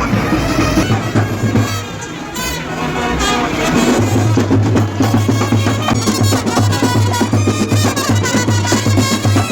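Brass band with drums playing, the bass line coming in strongly about four seconds in.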